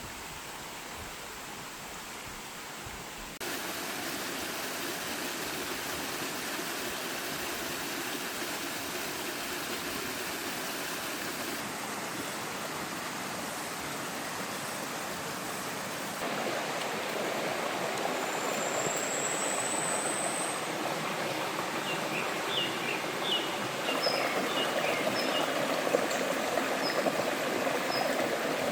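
Rushing water of a mountain stream and waterfall, a steady full hiss that jumps louder in a few sudden steps. Short high bird chirps sound over it in the second half.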